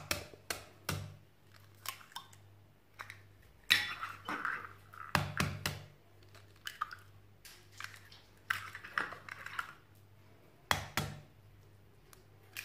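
Kitchen handling sounds: a string of sharp knocks and clatters of bowls and utensils being set down and moved, the loudest about four, five and eleven seconds in, over a faint steady hum.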